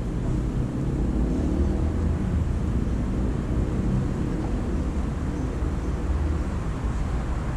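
Steady low rumble of city traffic, with no distinct bird calls standing out.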